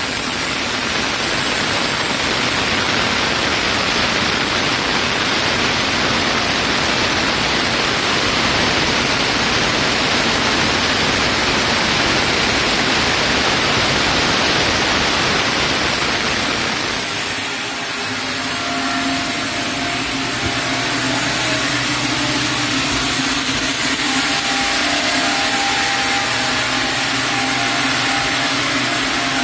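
Sawmill saw cutting lengthwise through a chinaberry log with a loud, steady rush of noise. About 17 seconds in the cut ends, and the machine runs on with a steadier hum.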